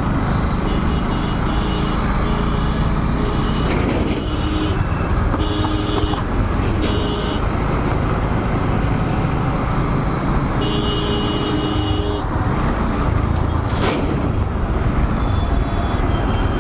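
Ride noise from a Bajaj Dominar 400 motorcycle in city traffic: a steady engine and wind rumble, with short horn blasts sounding repeatedly in the first seven seconds and again around eleven seconds in.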